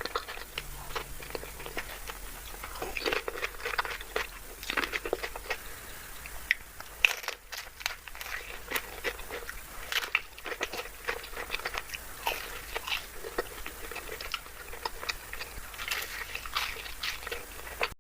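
Close-miked eating: a person biting into and chewing crunchy food, with many irregular crunches and crackles.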